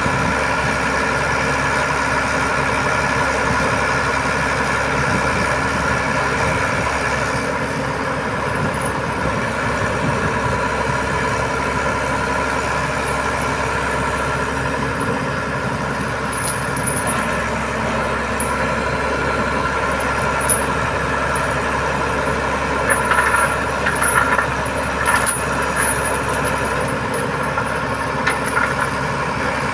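Boom truck's engine running steadily, with short high squeaks and a few brief knocks in the second half as the crane works.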